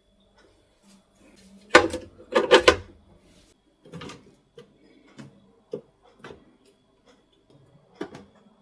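A series of knocks and clatters of objects being handled: a loud cluster about two seconds in, then several lighter single knocks.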